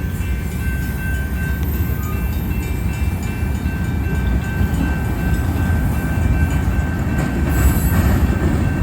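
Freight cars of a slowly rolling train passing close by, a steady low rumble with a thin, steady high-pitched tone above it. The rumble grows slightly louder near the end as the train begins to pick up speed.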